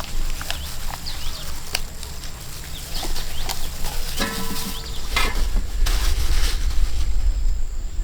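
Outdoor rural ambience of small birds chirping in short falling calls, with scattered clicks. About four seconds in there is a brief pitched animal call, and a low rumble grows stronger from about five seconds on.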